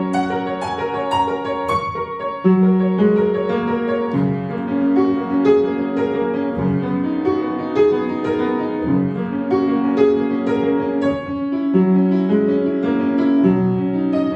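Solo piano playing a classical piece: a flowing line of separate notes over lower accompanying notes.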